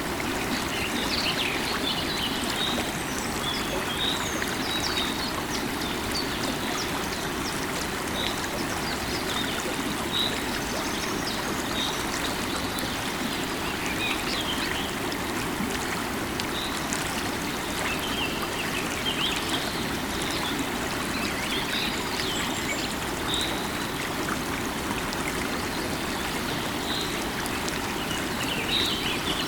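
Running river water flowing steadily, with birds singing over it: short high chirps repeating every second or two, and quicker twittering calls now and then.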